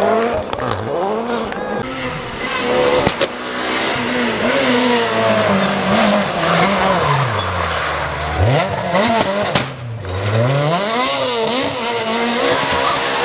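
Rally car engine revving hard and dropping back again and again as it is driven through a stage, with one long fall in pitch and then a sharp climb again about eight and a half seconds in. A few sharp cracks cut through the engine.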